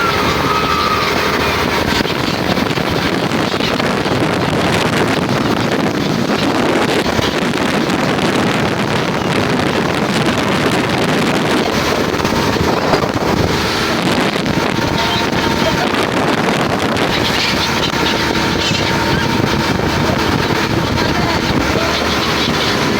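A motor boat's engine running steadily, with wind on the microphone.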